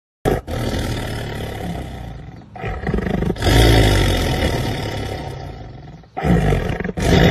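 Black panther growling and snarling in several rough bouts with short breaks between them, the loudest a few seconds in, trailing off, then two more short snarls near the end.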